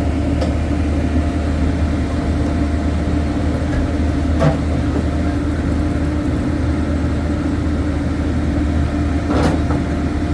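Heavy engine running steadily at a constant speed, with two short sharp knocks about five seconds apart.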